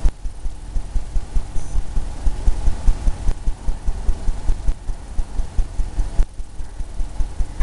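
Paintbrush dabbing and scrubbing against a canvas on an easel, heard as a rapid, irregular run of low thumps.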